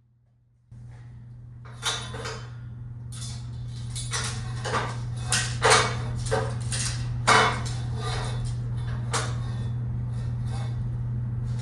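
An electric power tool switches on about a second in and runs with a steady hum, while a series of harsh, irregular rasping bursts come as it works steel tubing.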